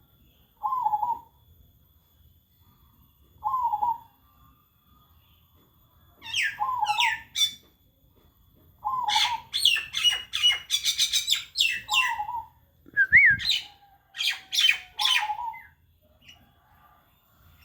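Zebra dove cooing: a short call repeated about every three seconds. From about six seconds in, other small birds chirp loudly in quick high notes alongside it.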